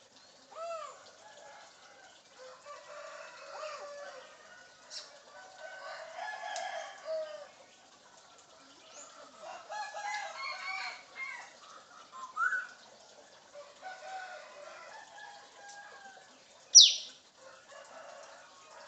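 African grey parrot vocalising: a run of varied chatter, squawks and pitched calls, with a short rising squeak and, near the end, a loud, sharp whistle that falls in pitch.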